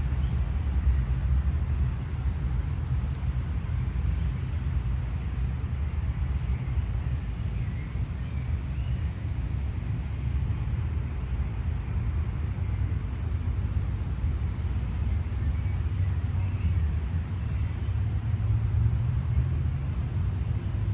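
Steady low rumble of city traffic, with faint, scattered bird chirps above it.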